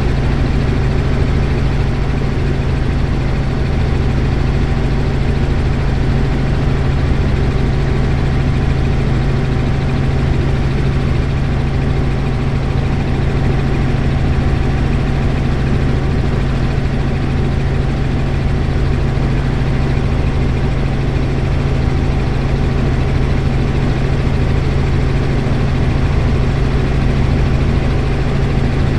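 Helicopter in flight: a loud, steady drone of rotor and engine with a thin constant whine above it.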